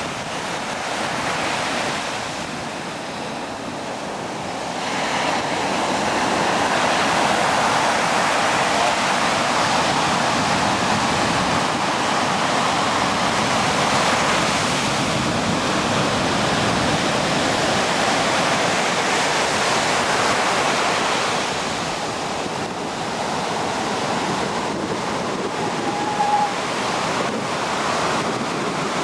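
Steady rushing of ocean surf, growing louder about five seconds in.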